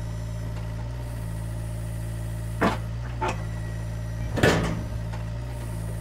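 Small electric motor of a toy remote-control crawler crane humming steadily as its hook is worked, with a few short clicks and knocks, the loudest about four seconds in.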